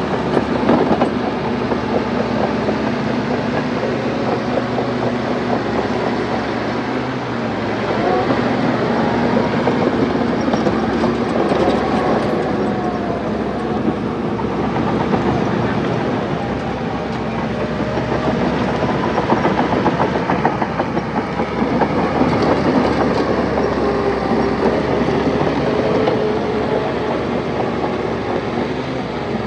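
Crawler dozer's diesel engine running under load, its pitch rising and falling as it works, with the steady clatter of its steel tracks.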